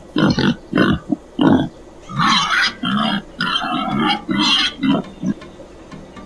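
A pig grunting: a quick series of about a dozen short calls that stops about five seconds in.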